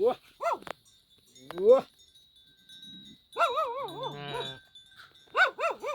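Sheep bleating again and again in short, wavering calls, with one longer call in the middle and a quick pair near the end.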